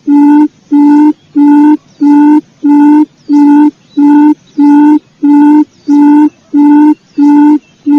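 Quail lure call: a loud low hooting note repeated evenly, about one and a half times a second, each note steady in pitch. Faint short chirps of other birds sound higher up now and then.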